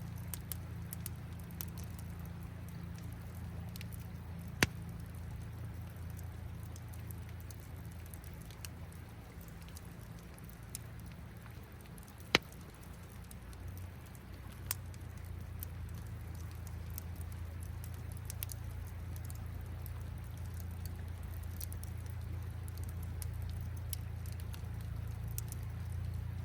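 Campfire crackling with scattered small crackles and two sharp pops, about five and twelve seconds in, over a low steady rumble of running river water.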